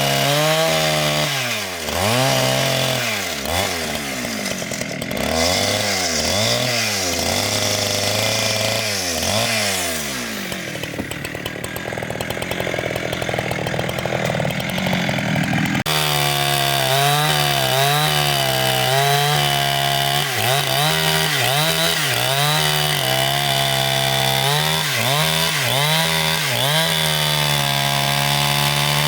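Petrol-engine saw cutting timber, its engine pitch repeatedly dipping and rising as the blade loads and frees in the wood.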